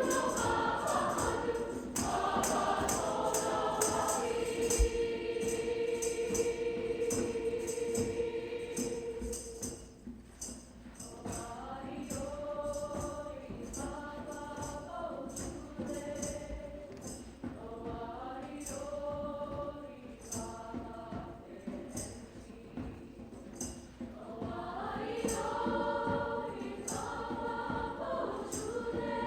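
Choir singing in parts over a steady beat of high shaken percussion. They hold one long chord early on, then the singing drops to a softer passage before swelling again near the end.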